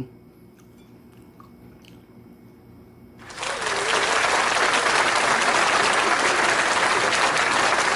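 Applause that starts abruptly about three seconds in and carries on steadily after a few seconds of near quiet.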